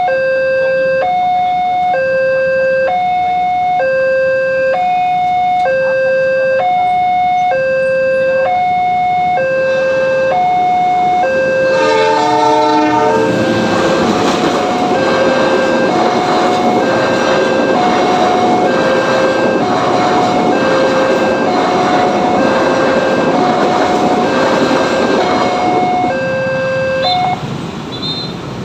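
Electronic two-tone warning alarm of an Indonesian railway level crossing, alternating between a lower and a higher pitch. About twelve seconds in a train horn sounds briefly, then the passenger train rolls through the crossing with a loud rushing rail noise under the alarm, which stops near the end.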